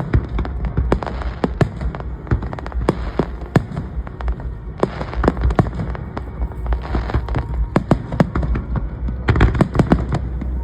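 Fireworks display: aerial shells bursting in rapid, irregular succession, many sharp bangs over a steady low rumble, coming thicker about nine seconds in.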